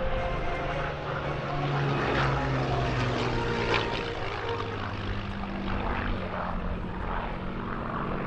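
Piston aero engine of a Second World War propeller fighter running in flight: a steady drone whose pitch shifts slowly.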